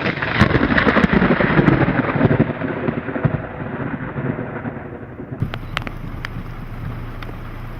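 A loud thunderclap rumbling and crackling, at its strongest in the first couple of seconds and slowly fading. About five seconds in the sound changes abruptly to a steadier storm noise with a low hum and a few sharp cracks.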